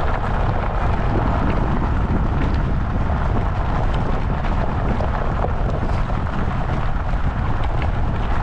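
Off-road luge cart rolling downhill: a steady rumble from its wheels on the course mixed with wind buffeting the GoPro's microphone.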